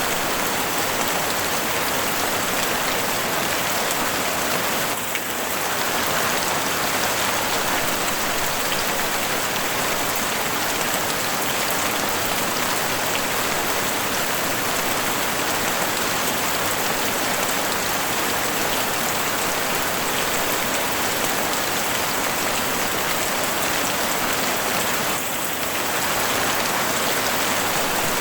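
Heavy rain falling steadily on a house roof, a dense even hiss of drops that dips briefly about five seconds in and again near the end.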